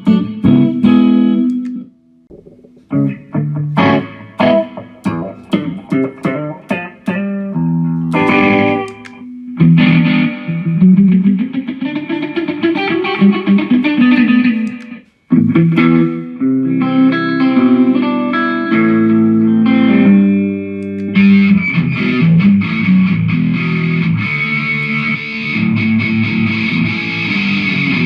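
Electric guitar played through a Mooer GE150 multi-effects processor, demonstrating its effects. It starts with picked notes and phrases, with a note swooping up and back down in the middle. About three quarters of the way in it changes to a brighter, denser sustained tone.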